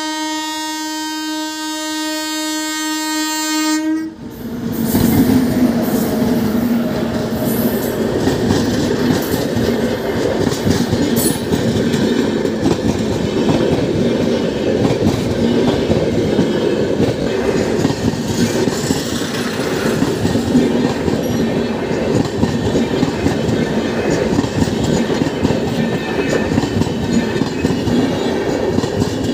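Indian Railways electric locomotive sounding its horn in one long steady blast that cuts off about four seconds in, then the express's coaches passing close by: a steady rumble and clatter of wheels on the rails.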